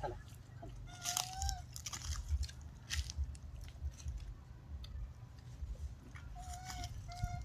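Monkeys crunching and chewing food handed to them, with scattered crackling bites. A few short calls at a level pitch sound through it, one about a second in and two near the end.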